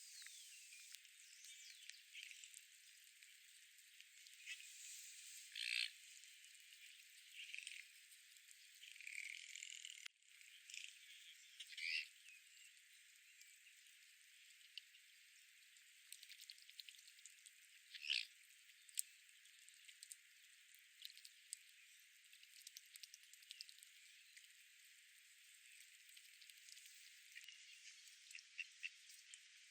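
Faint outdoor park ambience with scattered short bird calls and chirps, the loudest about 6, 12 and 18 seconds in, over a steady soft hiss.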